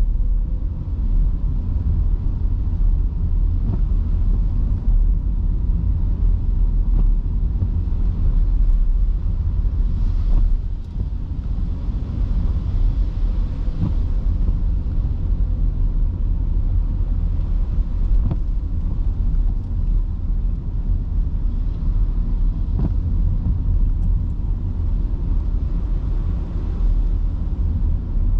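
A car driving through heavy rain: a steady, deep rumble of tyres on the wet road with an even hiss of rain and spray over it, and a few faint ticks scattered throughout.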